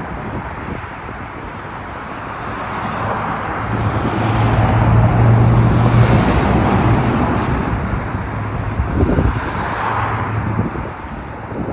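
Highway traffic passing at speed: the rush of tyres and a heavy vehicle's low, steady engine drone swell to their loudest about midway and then ease off, with a second smaller swell near ten seconds.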